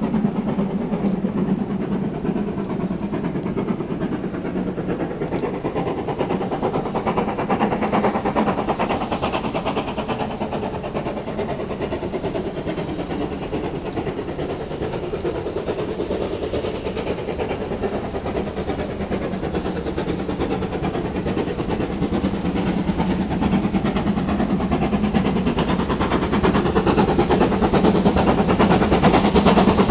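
A steam train running along the line, with a dense, steady rhythmic clatter that grows louder over the last few seconds.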